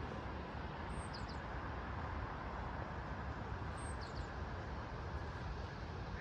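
Steady outdoor rumble and hiss, with a short high bird chirp about a second in and again about four seconds in.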